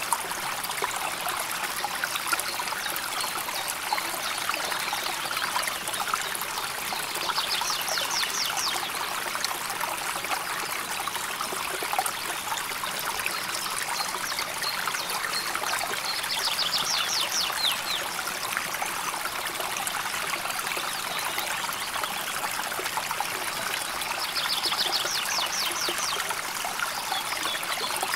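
River water flowing and trickling steadily over stones. A short, high, rapid trill sounds three times, roughly every eight or nine seconds.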